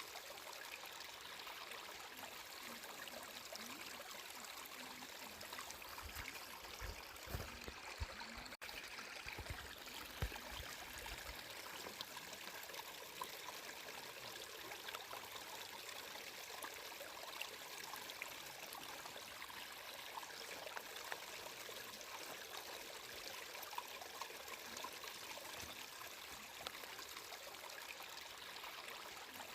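Flowing water trickling steadily, like a small stream. A few low bumps come between about six and eleven seconds in, with a momentary cut in the sound near eight and a half seconds.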